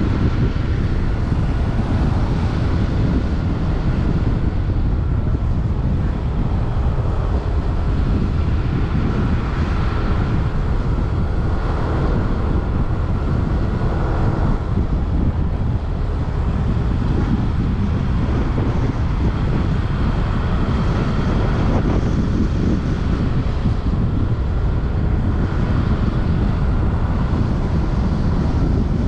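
Wind buffeting the microphone on a moving motorbike, over the steady running noise of the bike and the road.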